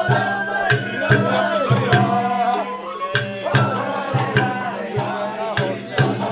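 Sawara bayashi festival music: a melody sliding up and down over steady taiko drum beats, with sharp strikes landing roughly twice a second.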